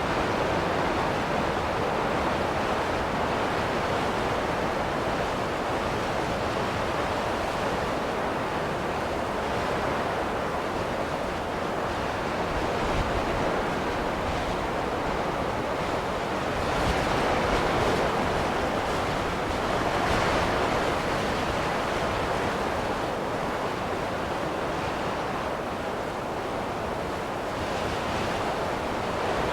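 Steady rushing wind of a snowstorm, a continuous hiss that swells a little about halfway through and then eases.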